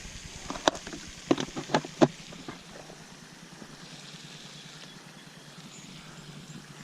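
Several sharp clicks and knocks in the first two and a half seconds, like gear being handled, then a steady faint outdoor background hiss.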